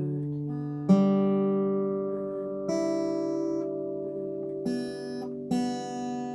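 Acoustic guitar fingerpicked slowly: four separate plucks, each left to ring and fade before the next.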